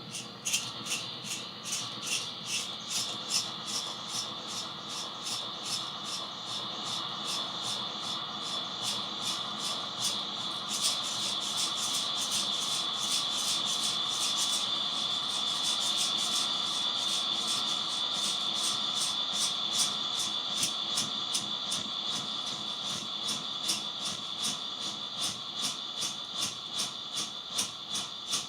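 Improvised noise made with electronics through distortion and delay pedals: a steady harsh hiss with a fast, regular pulsing. It grows louder about a third of the way in and eases back near the end.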